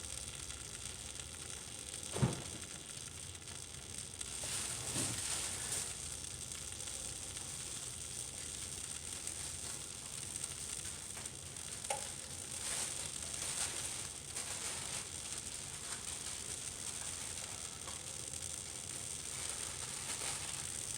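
Vegetables in Alfredo sauce sizzling steadily in the pan of a 3-in-1 toaster oven unit, with a single knock about two seconds in and a few light rustles and clicks.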